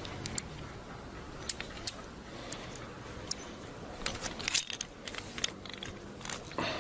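Irregular light clicks and clinks, like small hard objects knocking together, thickest about four seconds in, over a low steady background.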